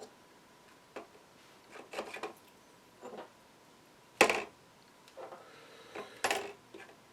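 Small parts and tools being handled on a workbench: irregular clicks, light knocks and short rubbing scrapes, with two louder knocks about four and six seconds in.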